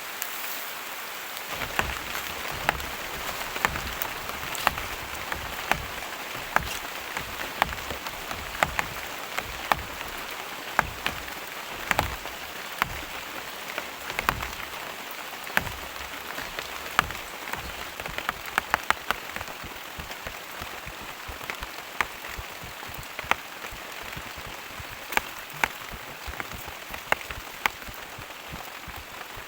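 Heavy rain falling steadily in rainforest, with frequent sharp, irregular drops striking close by.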